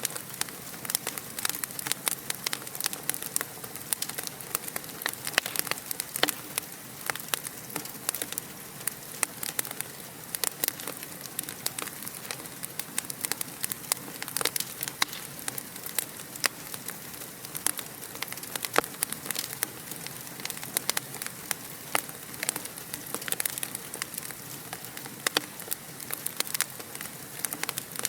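Wood fire crackling steadily: a dense, irregular run of sharp pops and snaps over a soft hiss.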